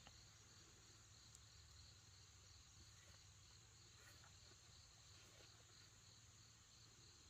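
Faint, steady insect chorus of high, rapidly pulsing trills.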